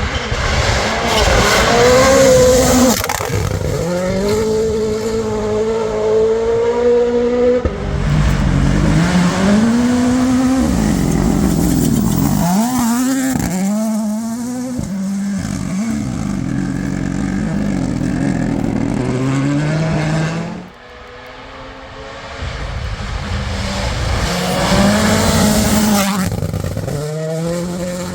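Rally cars at full throttle, each 1.6-litre turbocharged four-cylinder engine revving up through quick gear changes and dropping in pitch when lifting off to brake. There are several separate passes, with abrupt cuts between them.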